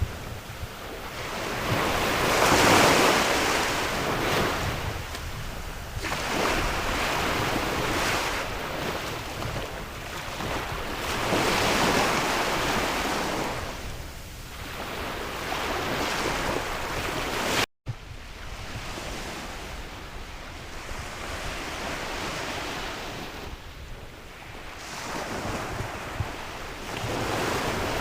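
Sea waves surging and breaking on a shore, swelling and falling away every few seconds, the strongest about three seconds in, with wind buffeting the microphone. The sound cuts out for an instant about two-thirds of the way through.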